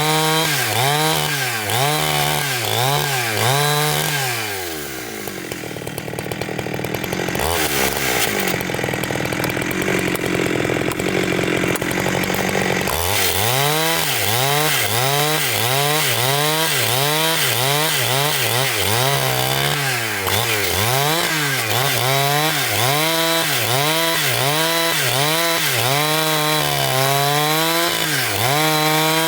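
Chainsaw cutting through large timber, its engine pitch rising and falling in a steady rhythm about once a second or a little faster. From about four seconds in, the rhythm gives way to a quieter, rougher stretch of cutting noise for several seconds, then the rising and falling engine note returns.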